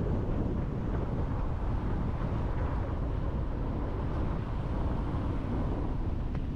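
Mountain river flowing: a steady, unbroken rush of water with a heavy low rumble.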